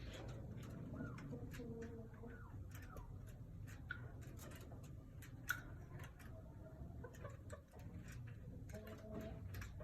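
Chakor (chukar partridge) making soft, low calls: a few held notes of about a second each and short sliding notes, with scattered faint clicks and taps.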